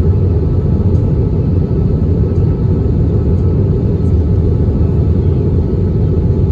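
Steady low rumble inside the cabin of an Airbus A320 on the ground after landing: engine and airframe noise, with a faint steady whine above it.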